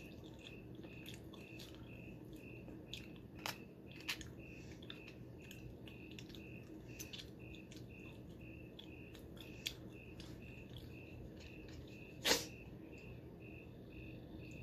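Quiet chewing and eating sounds, with small scattered clicks and taps and one louder knock about twelve seconds in. Behind them, a faint high chirp repeats steadily two to three times a second.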